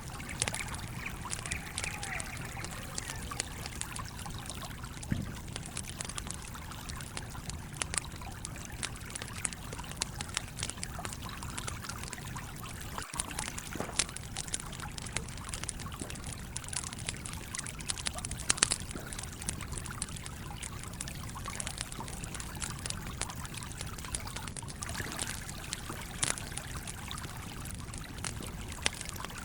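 A stream flowing steadily under a campfire crackling, with irregular sharp pops throughout; a few pops are louder, the loudest about two-thirds of the way in.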